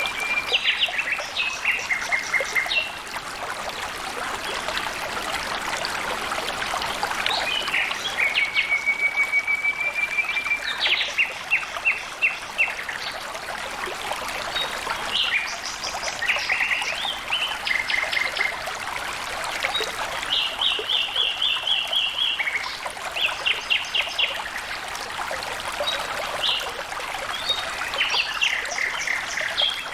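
Water flowing and trickling steadily, with birds calling over it throughout in quick trills and runs of rapidly repeated high notes.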